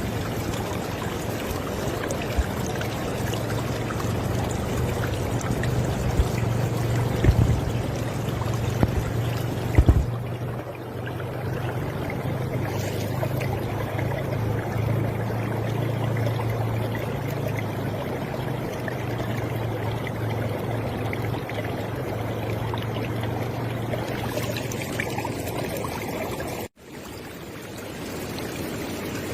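River water flowing steadily in a continuous rush, with a few brief louder splashes between about seven and ten seconds in. The sound cuts out for a moment near the end, then resumes.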